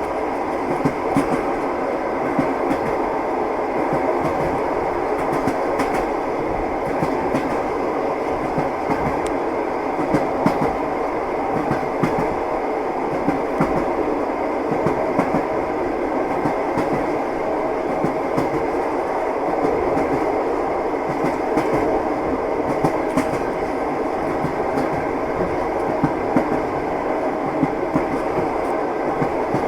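Train wheels clattering on the rails: a steady running rumble with frequent short clicks and knocks as the wheels pass over rail joints.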